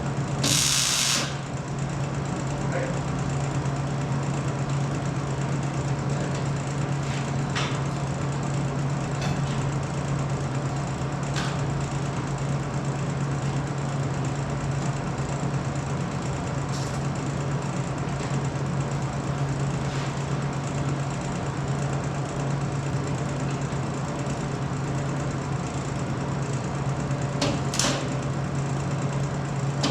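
A steady low mechanical hum with a few scattered knocks and clanks, the loudest just after the start and another near the end.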